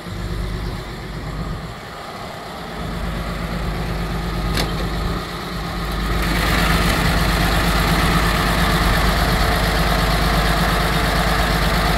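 1938 DeSoto's flathead straight-six idling steadily shortly after a cold start at minus two degrees. It grows louder about halfway through as the microphone reaches the open engine bay.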